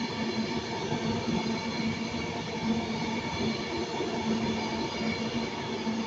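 An Avanti West Coast Pendolino electric train running past with a steady electric hum over wheel-and-rail noise.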